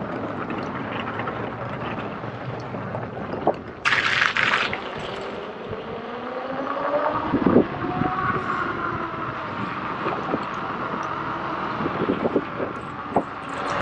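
Electric unicycle's motor whine rising and falling in pitch with speed, over wind on the microphone. A short hiss about four seconds in and a knock halfway through.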